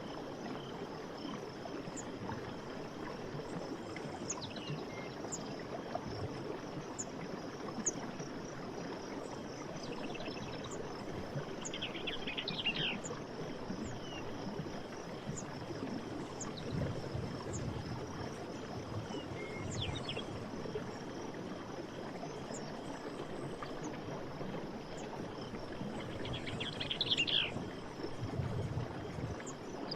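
Steady rush of running stream water with birds chirping now and then, including a brief flurry of calls about twelve seconds in and another near the end.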